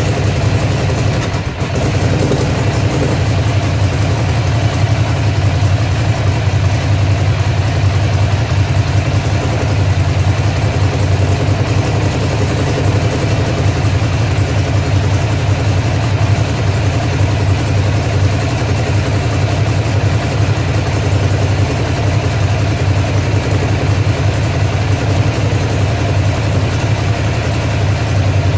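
Ducati Monster's air-cooled L-twin engine idling steadily, with a brief dip about a second and a half in. The bike has an engine misfire problem.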